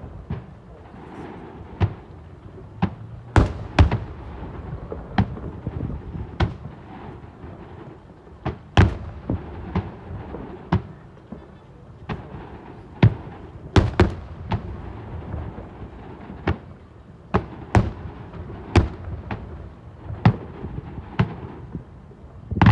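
Aerial fireworks shells bursting in an irregular series of sharp bangs, about one or two a second, over a continuous low rumble.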